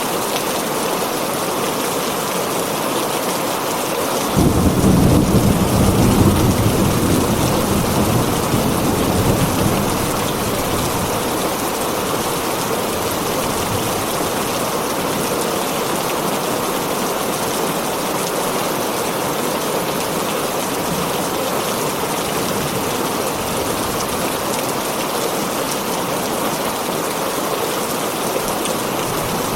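Heavy rain hammering steadily on a tin roof. About four seconds in, a sudden roll of thunder rumbles low for several seconds and then fades away.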